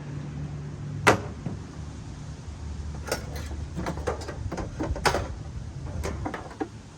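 Hand tools knocking and clattering as they are taken out of a storage compartment and set down: one sharp knock about a second in, then a run of clicks and knocks later on, over a low steady rumble.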